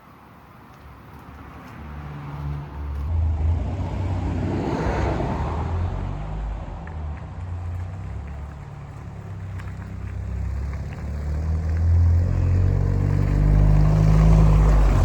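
Toyota Celica GT-Four ST185's turbocharged four-cylinder engine running as the car drives, its low rumble growing from faint to loud over the first few seconds, with a fuller surge about five seconds in, and getting louder again near the end.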